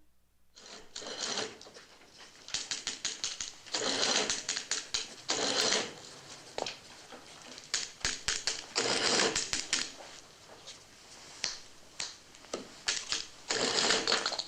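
Keys and mechanism of a mechanical adding machine clattering in bursts of rapid clicks, with short pauses and a few single clicks between the runs, as figures are tallied.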